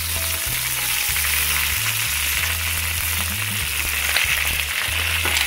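Pork hocks frying in very hot oil in a steel wok: a steady sizzle, with a couple of light clicks of metal tongs against the pan near the end as pieces are lifted out.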